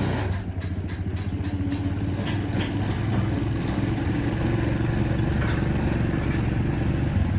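An engine running steadily at a constant speed, with a steady higher hum over most of it and a few light clicks near the start.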